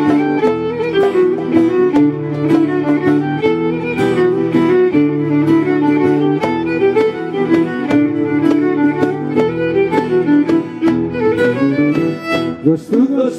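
Live Greek folk band playing an Ikariotikos dance tune without singing: a violin leads a quick running melody over guitar accompaniment and the steady beat of a toumbeleki goblet drum.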